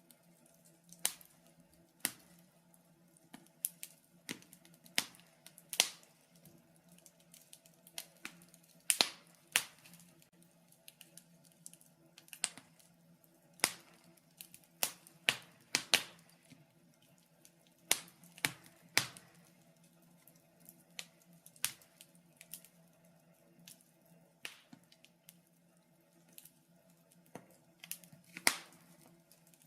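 Wood fire in a fireplace crackling: irregular sharp pops and snaps, sometimes several in quick succession, a few much louder than the rest, over a faint steady low hum.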